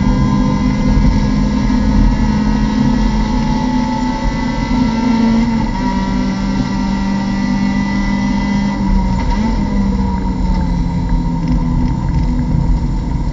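Mazda MX-5 Cup race car's 2.0-litre four-cylinder engine heard from inside the cockpit, running hard at high revs on the throttle. The engine note steps down about halfway through, with a brief rise and fall in pitch near nine seconds in.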